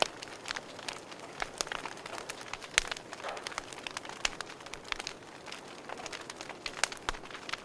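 Wood fire burning in a fireplace, crackling with irregular sharp pops and snaps over a soft hiss; the loudest pops come near 3 seconds in and again near the end.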